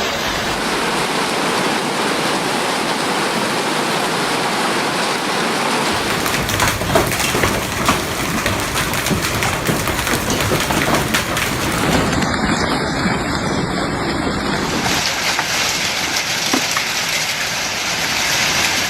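Hail and heavy rain pelting down: a dense, steady hiss scattered with sharp individual impacts. The sound changes suddenly about two-thirds of the way through and again shortly after.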